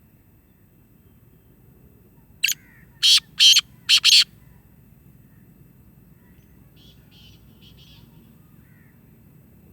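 A bird gives five loud, harsh calls in quick succession about two and a half seconds in. A few fainter, rapid calls follow a few seconds later.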